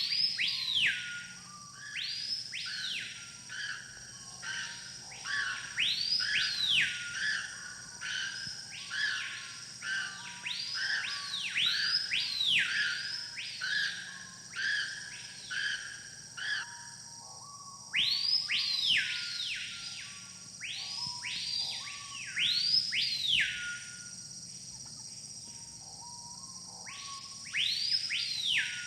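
A jungle bird calling over and over in loud whistles. Each call sweeps sharply up and then falls away, and the calls come in runs with pauses between them, over a steady high-pitched insect drone.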